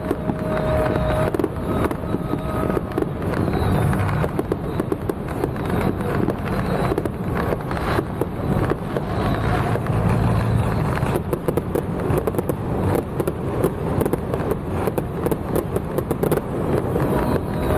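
Fireworks going off in a dense, continuous crackle of pops and cracks over a low rumble.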